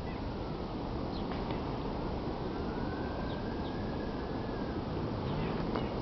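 Steady outdoor background noise with a faint distant siren wailing slowly up and down for several seconds, and a few short high chirps.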